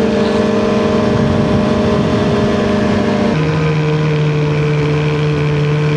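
2023 Polaris Khaos Boost snowmobile's turbocharged two-stroke engine running at a steady speed, its pitch stepping down to a lower steady note a little after halfway through.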